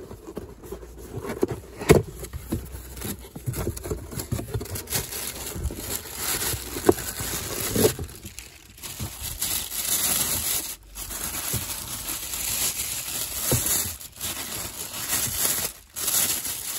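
Crinkling and rustling of packaging being handled and unwrapped, with scattered clicks and scrapes.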